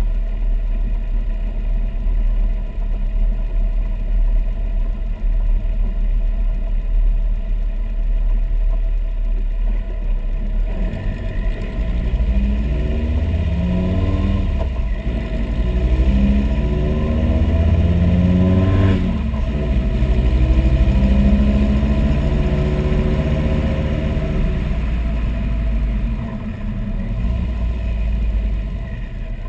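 Supercharged VW 2.5-litre inline-five engine idling for about ten seconds, then revved up and down repeatedly in neutral, with one sharp crack about midway through the revving, before it drops back to idle.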